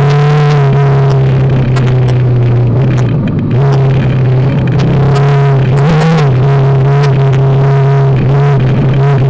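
BMW G310GS's 313 cc single-cylinder engine running steadily under way on a dirt track, heard from on the bike. The engine note eases briefly about three seconds in and picks up again. Scattered sharp clicks and knocks come from the rough surface.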